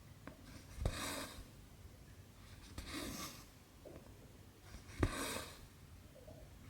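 Cotton embroidery thread drawn through cross-stitch fabric with a needle. It makes a swishing rasp about every two seconds, three in all, and the first and last open with a sharp tick as the needle goes through.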